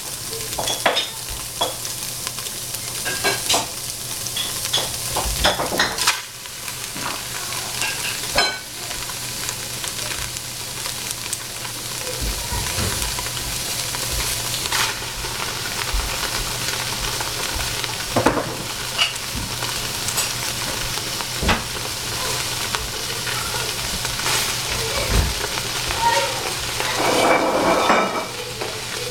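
Steady sizzle of tofu frying in oil in a stainless steel stockpot, with scattered knocks and rustles as chopped cabbage is dropped in on top.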